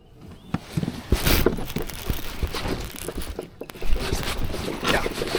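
Close handling noise: a dense, irregular run of clicks, scrapes and knocks that starts about half a second in, with a loud knock near the four-second mark.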